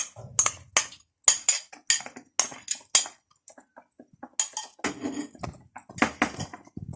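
A cooking utensil scraping and clinking against a pan in a quick, irregular series of strokes while mixing thick masala paste, with a short pause a little past the middle.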